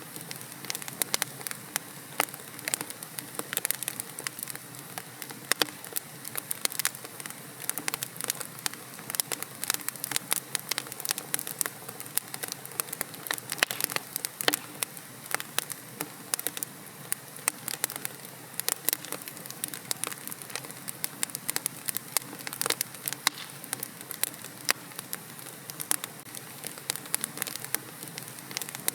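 Wood fire burning in a fireplace: a steady soft hiss with many sharp, irregular crackles and pops.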